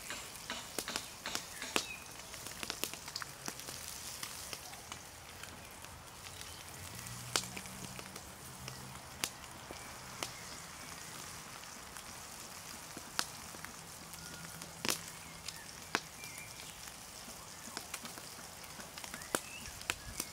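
Roach frying over a campfire: a steady sizzle with sharp, irregular pops and crackles.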